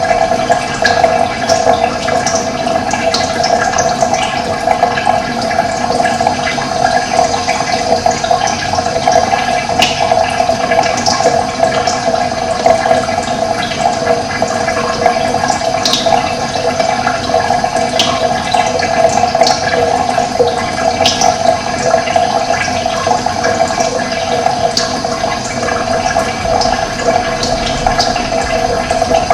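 Running water rushing steadily, with brief high chirps scattered through it.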